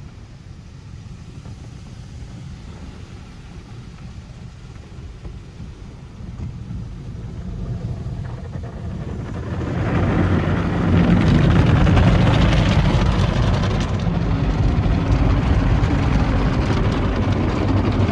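Automatic tunnel car wash equipment running: a low rumble, then about halfway through a louder, steady rushing noise sets in and holds.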